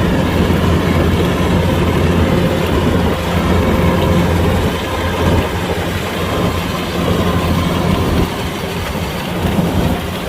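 Kubota DC-105X rice combine harvester running: a steady, loud diesel engine hum under the dense noise of its working machinery, easing slightly in level about halfway through.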